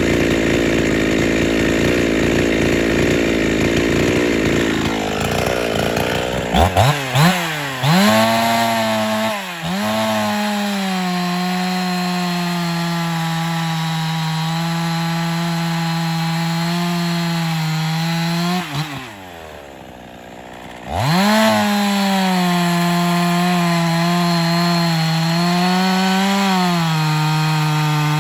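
Ported Husqvarna 50 two-stroke chainsaw cutting hickory. A rough, low-pitched bogged-down cut gives way to the engine revving up about six seconds in, with a couple of blips, and then running at high steady revs. It drops briefly to idle about two-thirds of the way through, then revs back up and runs high again with a slight dip in speed near the end.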